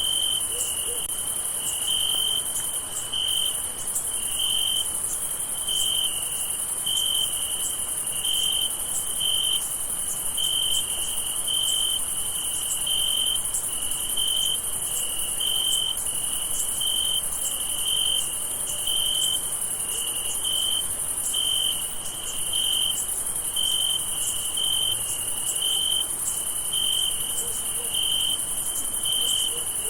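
Crickets chirping at night: one cricket pulses an even, high chirp about one and a half times a second over a steady, higher-pitched trill of many insects.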